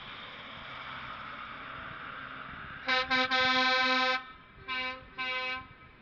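Truck air horn sounding a string of blasts: two quick toots, one held for about a second, then two shorter blasts. Before the horn, steady vehicle running noise swells as trucks roll in.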